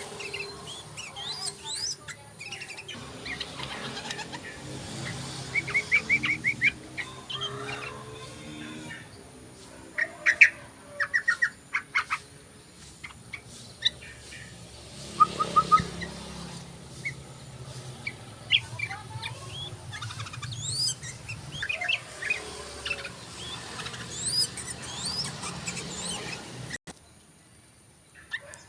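Yellow-vented bulbul (trucukan) calling: bursts of quick chattering notes and short rising whistles. A steady low hum runs underneath and stops near the end.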